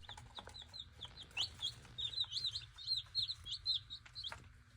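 Small birds chirping rapidly: a stream of short, high, hooked chirps, several a second.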